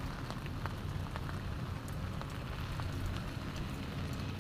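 Rain falling steadily, with scattered drops ticking close by over a steady low rumble.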